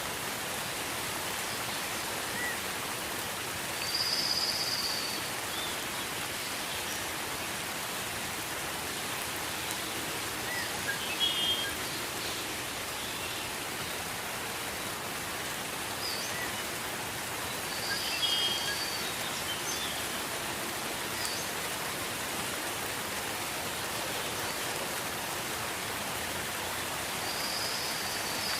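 Steady gentle rain, an even hiss of falling drops. Short high chirps stand out over it a few times.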